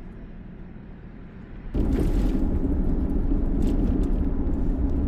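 A car driving, with a steady low road and engine rumble that jumps sharply louder a little under two seconds in.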